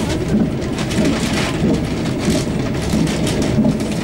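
Steady rumbling noise of a moving passenger train, heard from inside the carriage.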